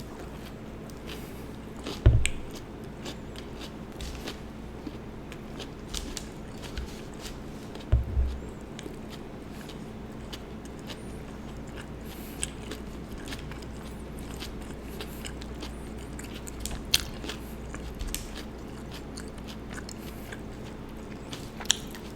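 Close-miked chewing and biting of a sub sandwich, wet mouth clicks scattered throughout, with two louder low thumps about two and eight seconds in.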